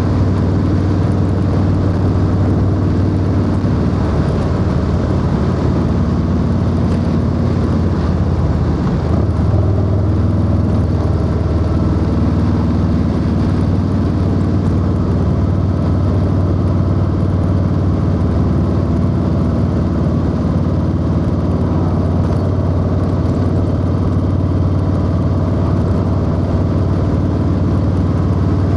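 Harley-Davidson Low Rider S V-twin engine running steadily at cruising speed through a 2-into-1 exhaust. Its note dips briefly about nine seconds in, then settles back to a steady drone.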